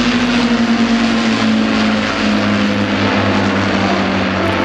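Avro Lancaster's four Merlin V12 piston engines droning in a flypast, their pitch dropping about two seconds in as the bomber passes.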